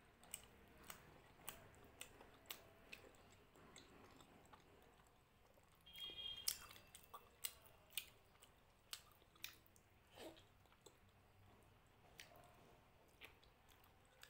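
Faint, close-up eating sounds of a person chewing mutton curry: wet lip smacks and mouth clicks, about two a second at first, then a denser run about six seconds in.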